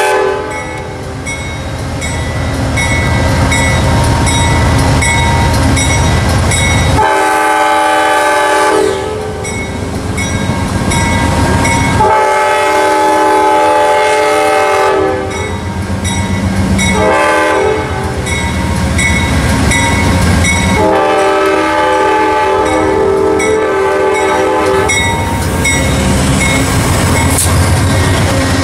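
Amtrak P42 locomotive's Nathan K5LA five-chime air horn sounding the grade-crossing pattern: long, long, short, long. Between the blasts the locomotive's diesel engine rumbles as the train pulls out.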